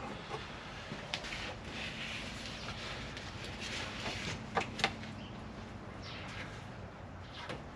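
Quiet shop background with a few light clicks and knocks, two of them close together about four and a half seconds in.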